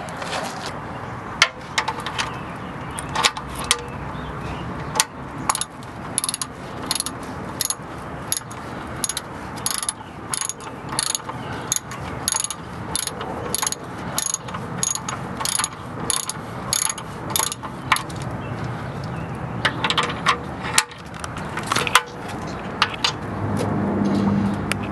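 Ratchet wrench clicking as the oil drain plug is turned back in and tightened after draining: scattered clicks, then a fast even run of about two or three clicks a second through the middle, then scattered clicks again.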